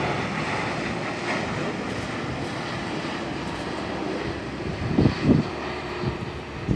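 Jet airliner's engines heard as it comes in to land, a steady rumble that slowly fades as it passes. Two short louder bursts come about five seconds in.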